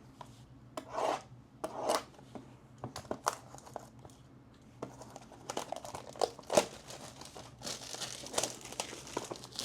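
Trading-card packaging being handled and opened: irregular crinkling and tearing of wrapper and box material, in short rustles with the loudest bursts about a second and two seconds in and again after six seconds.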